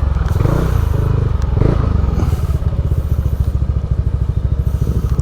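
Motorcycle engine running at low revs, a steady rapid beat of firing pulses.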